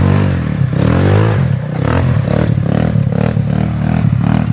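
Avantis ATV engine revving in repeated throttle blips as the quad works its way through mud, its pitch rising and falling; the blips come quicker in the second half.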